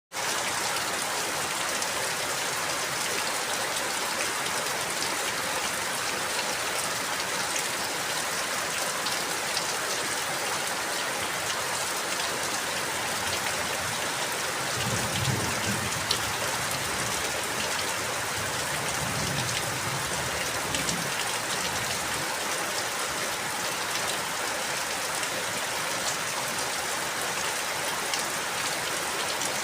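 Steady rain falling, with a dense, even patter of drops. A low rumble comes in briefly twice near the middle.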